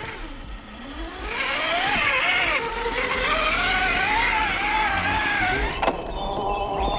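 Whine of radio-controlled scale crawler trucks' electric motors and gear drives, the pitch rising and falling with the throttle, with a sharp knock about six seconds in.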